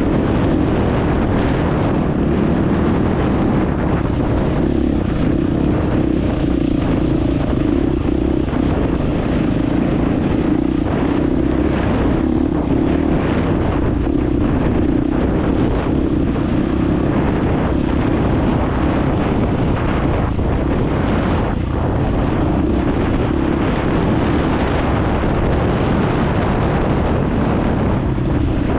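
Dirt bike engine running at a fairly steady speed while riding, with wind noise on the microphone.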